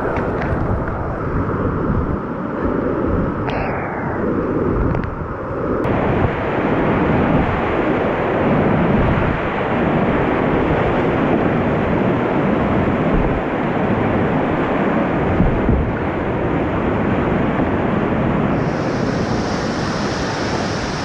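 Rushing whitewater of a river at high water: a dense, steady water noise with no pitch to it.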